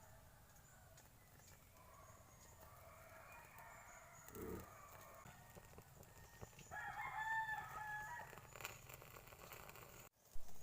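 A rooster crowing once, loudest about seven seconds in, with a fainter, more distant crow earlier and a brief low thud between them.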